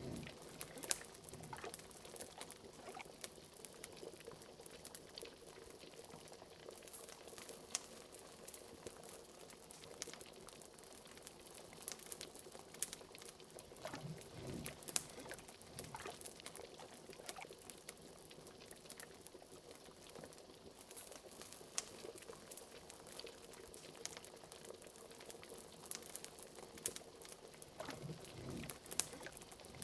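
Liquid bubbling steadily in a cauldron, with a few larger gurgling bubbles now and then, over a crackling fire with many small sharp pops.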